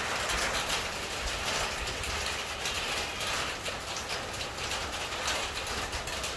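Steady downpour of rain, a dense even patter of many small drop impacts.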